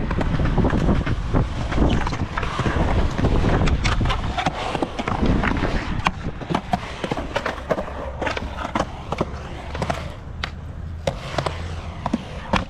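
Skateboard riding: wheels rolling with a rough rumble, loudest in the first half, and sharp clacks of the board and trucks hitting the ground. Later the rolling is quieter and the clacks are scattered.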